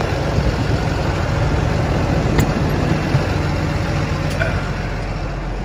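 Truck engine running steadily, a low even sound with a few faint ticks.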